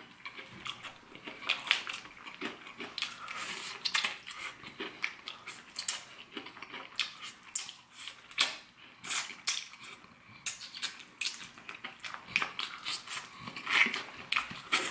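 A person eating fried chicken close to the microphone: biting and chewing the crust and meat, heard as a run of irregular short crunches and mouth clicks.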